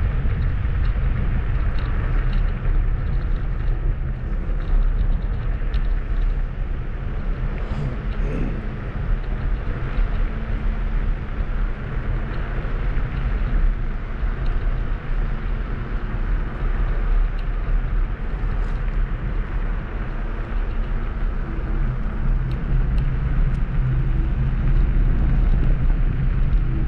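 Kugoo G2 Max electric scooter riding along: a steady, unbroken rumble of tyres and motor on the move.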